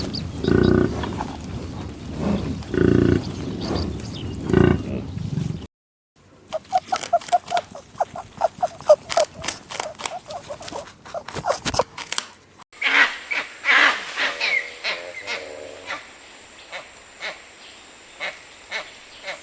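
Animal calls from a run of short clips cut together: loud low calls for about the first six seconds, then a fast series of short clicks and notes, then thinner, higher-pitched calls.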